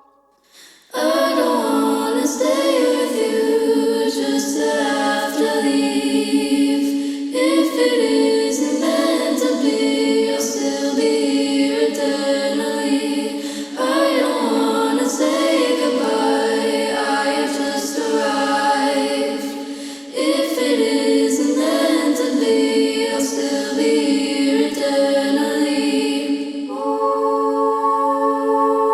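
A cappella vocal music: several voices singing held chords in phrases of about six or seven seconds. It starts about a second in, after a short silence.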